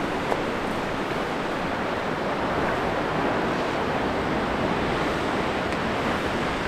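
Ocean surf: a steady wash of breaking waves that swells a little in the middle.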